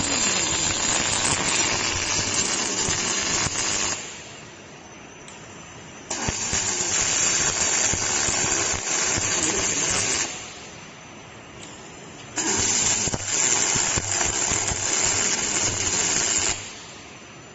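Robotic MIG welding arc on aluminium: three welds of about four seconds each, a steady noisy arc sound, with quieter pauses between them.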